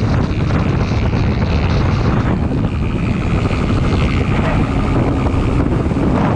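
Motorcycle running at speed, its engine drone mixed with steady, loud wind rush on the microphone.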